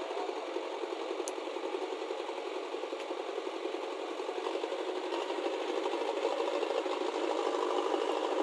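A small machine engine running with a fast, steady mechanical rattle, growing slightly louder toward the end.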